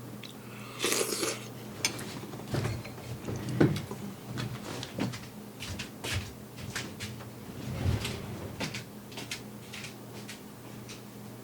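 Kitchen handling sounds: an irregular string of small knocks and clicks, like a cupboard or drawer and containers being handled, with a short rattle about a second in.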